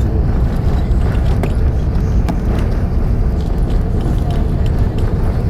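Cabin noise inside a British Airways Airbus A380's upper deck as it taxis after landing: a steady, heavy low rumble from the rolling undercarriage and the idling engines, with a few faint knocks.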